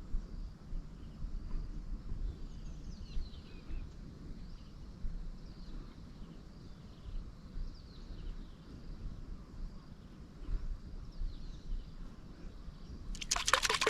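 Quiet outdoor ambience with faint, short falling bird chirps repeating every second or so over a low rumble. Near the end, a loud splashing, rushing water sound starts suddenly.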